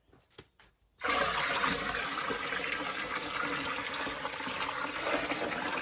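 Water poured in a steady stream into a pot, starting suddenly about a second in and running for about five seconds.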